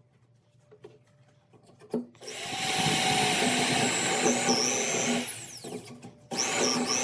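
A power tool working wood, run in two bursts. A few soft knocks come first. From about two seconds in the motor whines loudly for some three and a half seconds, its pitch dipping as it bites. It starts up again briefly near the end.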